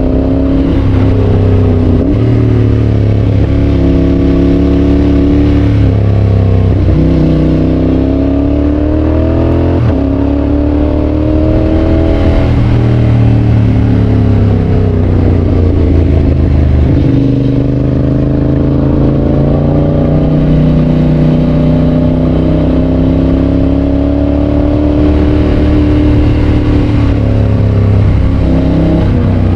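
Yamaha Tracer 7's 689 cc parallel-twin engine through a GPR aftermarket exhaust, ridden on the road. The engine note climbs and falls, broken by several quick gear changes.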